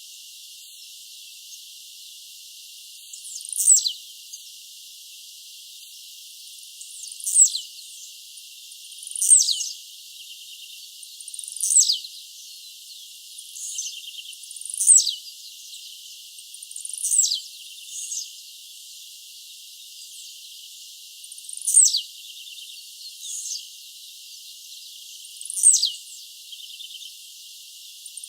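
Blue-black grassquit (tiziu) singing: a short, high, downward-sweeping buzzy note repeated every two to four seconds, some renditions fainter than others.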